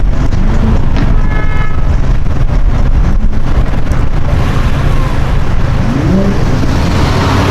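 Loud engine and exhaust of a performance car, rising in pitch three times as it accelerates, with a short car horn toot about a second in.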